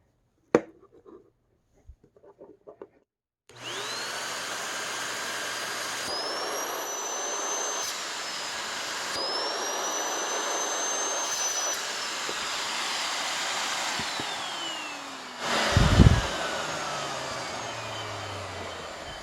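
Bare vacuum motor from a 2009 Hoover NanoLite starting up a few seconds in with a rising high whine and running hard on a sealed-suction (water lift) test. The motor strains at well over 120 inches of lift. It is then switched off and winds down with a long falling whine, with a loud thump partway through the wind-down.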